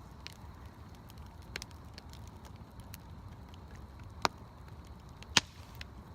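Campfire wood crackling: scattered small pops, with two sharp loud snaps about four and five and a half seconds in, over a steady low background rumble.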